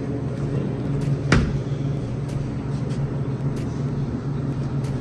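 Vehicle engine running steadily with a low hum, with one sharp knock about a second and a half in.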